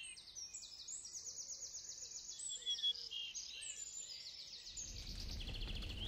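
Faint songbirds singing: overlapping runs of quick, high, thin chirps and trills from several birds. A low rumble comes in near the end.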